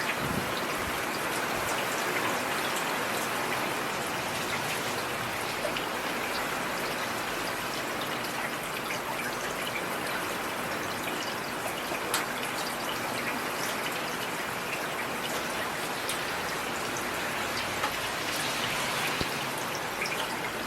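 Heavy rain falling steadily: a dense, even hiss with scattered sharp drop impacts ticking through it.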